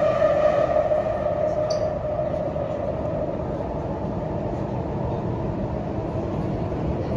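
Inside the cabin of a CRRC Puzhen Type-A metro train: the electric traction motors' whine sinks a little in pitch and fades out over the first two seconds. After that only the steady rumble of the wheels on the track remains.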